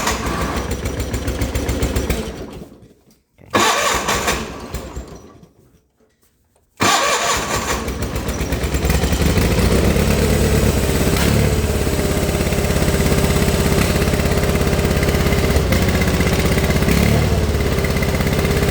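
John Deere 420's two-cylinder gasoline engine being cold-started on full choke. It catches and fades away twice, then about seven seconds in it fires and keeps running steadily. The engine burns a lot of oil, which the owner puts down to a probable cracked ring or scoring in the right cylinder.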